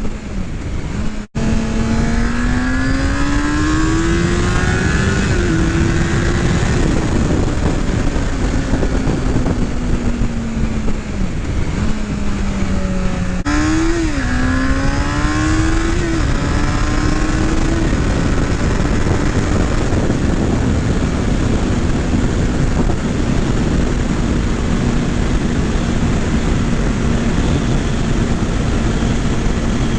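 Motorcycle engine under way, its pitch climbing and then dropping sharply at each gear change, over a steady rushing noise. From about halfway in it holds a steady cruising pitch.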